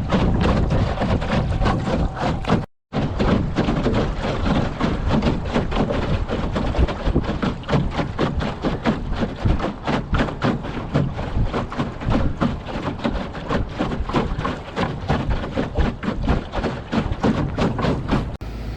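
Choppy water slapping against a plywood skiff's hull in rapid, irregular knocks and thuds, mixed with wind buffeting. The sound cuts out briefly about three seconds in.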